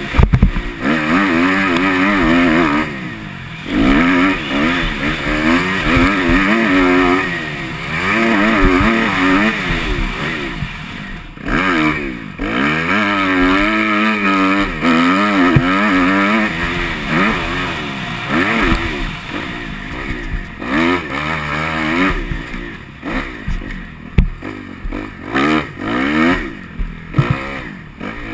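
Motocross bike engine being ridden hard on a dirt track. It revs up and falls back again and again as the throttle is opened and shut through turns and jumps, with brief lulls when it is shut off.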